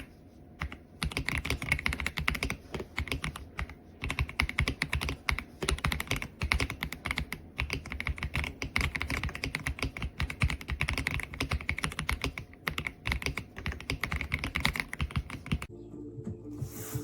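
Typing on an Aula F75 gasket-mounted mechanical keyboard with Ice Vein switches: a fast, irregular stream of key presses. The keystrokes stop near the end and music comes in.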